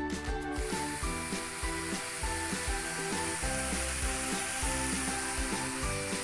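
Mung bean sprouts and vegetables sizzling as they sauté in a wok, the hiss starting about half a second in and holding steady, under background music with a steady beat.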